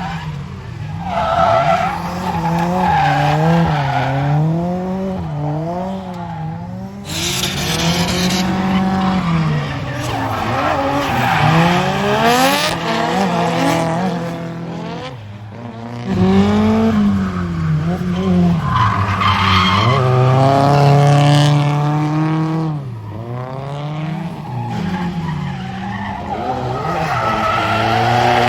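Drift cars' engines revving up and down over and over on the limiter-to-lift cycle of a drift, with tires squealing and screeching as they slide through the corners.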